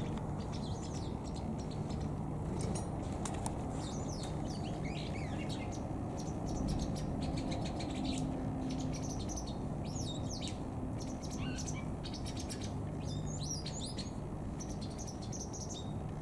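White wagtails twittering: quick, high chirps and short sweeping calls come in clusters throughout, over a steady low hum.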